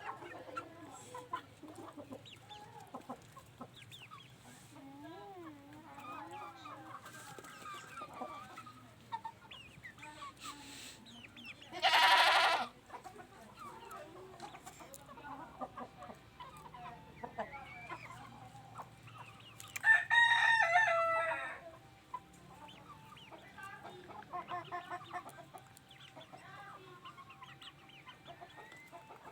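Kandahari giant chickens clucking and calling softly throughout, with two loud calls: a short one about twelve seconds in and a longer, crow-like one about twenty seconds in.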